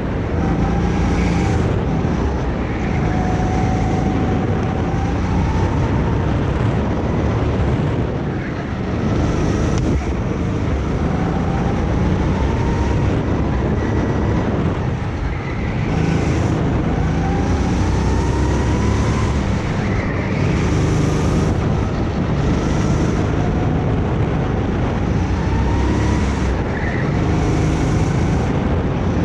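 Go-kart engine running hard, its pitch repeatedly rising as it accelerates and dropping back, with brief dips about eight and fifteen seconds in as it eases off.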